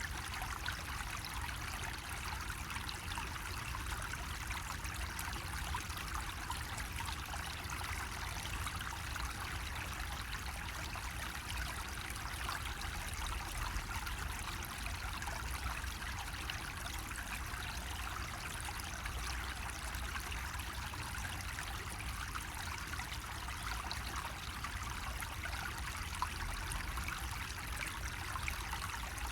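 Water running steadily from a bamboo faucet (kakei spout) and trickling into a basin, an even, continuous splashing with a low rumble underneath.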